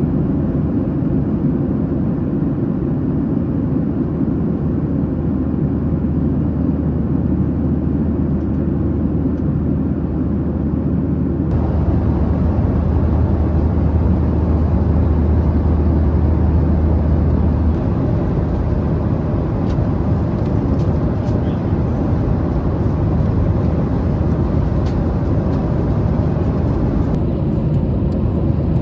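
Steady cabin noise of a Boeing 737-800 in flight: a loud, low rumble of airflow and engines heard from a passenger seat. Its tone shifts a few times, and a deeper hum is strongest between about twelve and eighteen seconds in.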